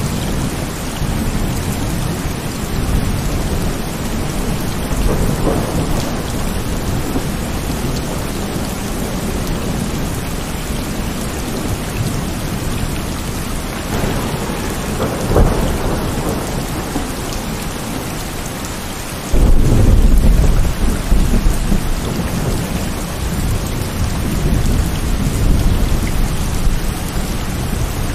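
Heavy rain falling steadily, with thunder rumbling low several times. About two-thirds of the way through, a sudden louder peal of thunder breaks in and rolls on for several seconds.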